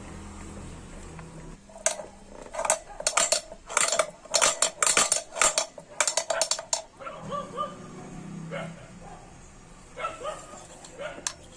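Metal parts clinking and clanking in quick, irregular strikes with a ringing note, loudest for about five seconds from two seconds in, then a few scattered softer knocks.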